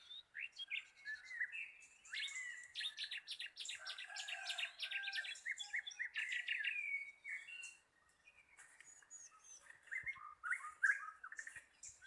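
Wild songbirds chirping and calling, several at once. A dense run of rapid high notes and short whistles is followed by a brief lull, then more scattered calls near the end.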